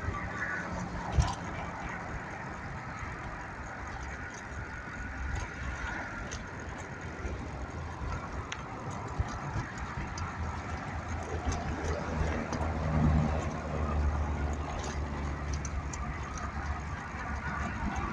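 City street traffic rumbling steadily, with small rattling clicks. A motor vehicle's engine hum grows louder about twelve seconds in and eases off a few seconds later.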